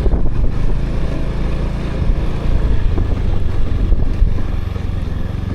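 Motorbike engine running steadily while riding, with wind rumbling on the microphone.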